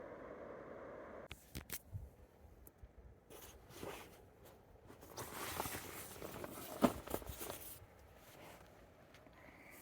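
A steady hiss that stops abruptly about a second in, then rustling and handling noises of camping gear: several sharp clicks and a longer rasping stretch, with the loudest click near the end of it.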